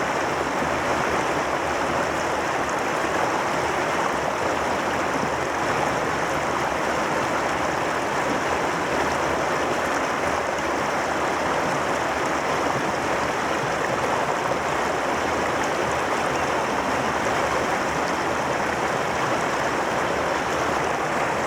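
Mountain valley stream, water rushing steadily and evenly.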